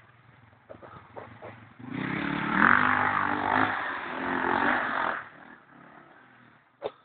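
Enduro motorcycle engine revving as it passes close by: loud for about three seconds with the pitch rising and falling under the throttle, then fading away. A single sharp knock near the end.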